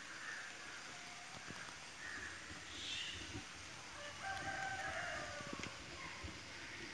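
Birds calling outdoors, with short chirps and a longer, steadier call a little over four seconds in.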